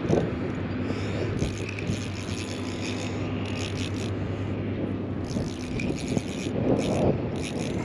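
Wind noise on the microphone with a steady low hum, broken every second or two by short bursts of fast clicking, typical of a fishing reel being worked while playing a hooked steelhead.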